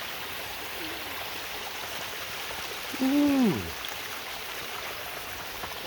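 Steady rush of a creek running over small cascades, with a man's drawn-out "ooh" falling in pitch about three seconds in.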